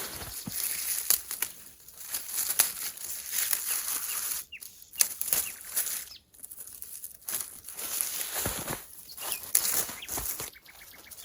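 Irregular rustling and crinkling handling noises in short bursts, with sharp clicks and brief pauses between them.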